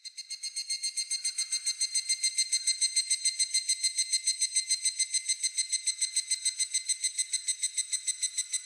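Higurashi (evening cicada) calling: a fast, even run of ringing, high-pitched pulses, about eight a second, that swells over the first couple of seconds and then holds steady.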